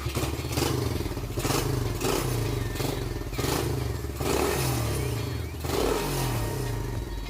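Suzuki Raider 150's single-cylinder four-stroke engine idling and revved in about seven short throttle blips, each falling back toward idle.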